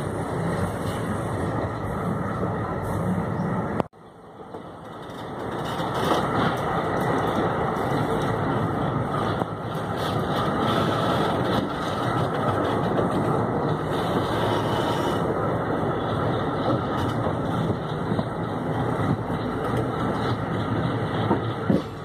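Moving passenger train heard from an open coach doorway: a steady rumble of wheels on rails and rushing air. The sound breaks off abruptly about four seconds in, then builds back up over the next two seconds.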